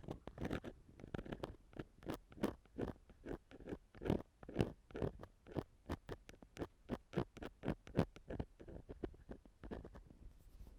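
Ear-cleaning tool scraping and rubbing against a microphone in short, irregular strokes, about three or four a second.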